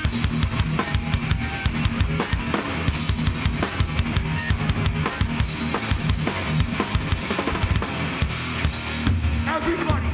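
Live heavy band playing an instrumental passage without vocals, led by a drum kit with rapid bass-drum hits and snare over a dense wall of guitar and bass.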